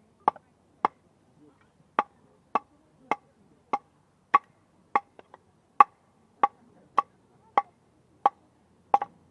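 Nata (Japanese hatchet) chopping into firewood to split it: about fourteen sharp woody knocks at a steady pace, a little under two a second.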